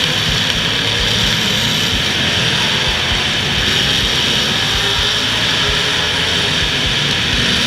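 Demolition derby car engines running loud and steady together, an even roar with an uneven low rumble.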